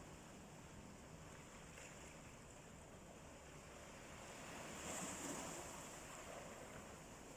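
Faint sea waves washing in: a steady surf hiss that swells once, about five seconds in.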